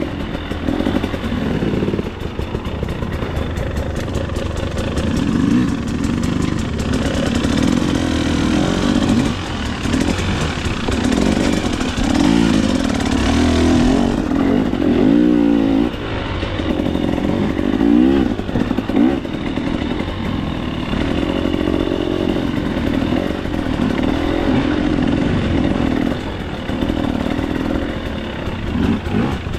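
2024 KTM 300 XC-W's single-cylinder two-stroke engine revving up and down with the throttle while riding a trail, its pitch rising and falling every second or two, with knocks and clatter from the bike over rough ground.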